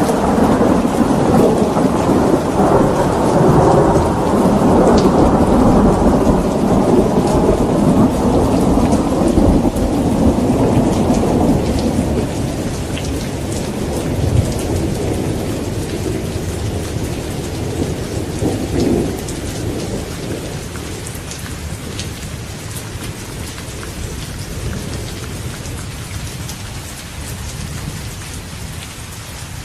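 Steady rain with a long roll of thunder that rumbles loudly for the first ten seconds or so, swells once more briefly, then fades away. This leaves the even rain hiss with scattered drop ticks.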